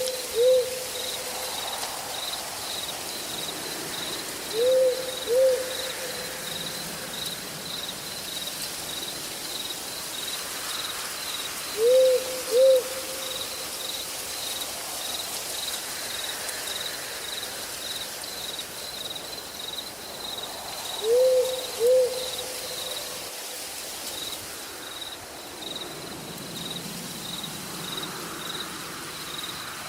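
An owl hooting in pairs: two short low hoots about half a second apart, repeated four times several seconds apart. Behind it, an insect chirps steadily at a high pitch about twice a second over a soft, even hiss of night forest.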